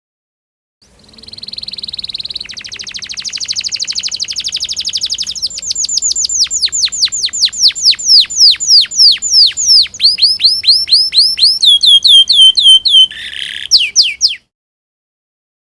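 Domestic canary singing a sequence of trills. It opens with a buzzy trill, moves into a very fast roll, then a series of falling whistled notes at about three or four a second that grow louder. The song cuts off suddenly near the end.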